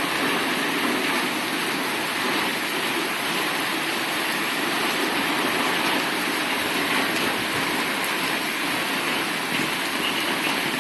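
Heavy rain falling steadily, an even hiss with no break or thunderclap.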